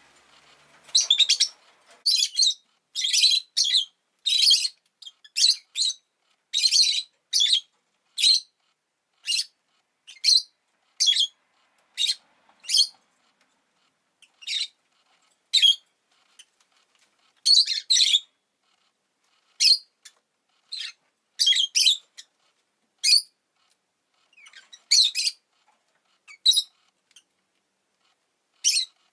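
Rosy-faced lovebird (Agapornis roseicollis) giving short, high-pitched chirps, about one a second, some in quick pairs, with a couple of brief pauses.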